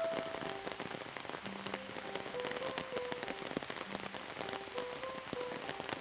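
Steady rain falling, with many separate drops striking close by, under a soft, slow melody of single held notes.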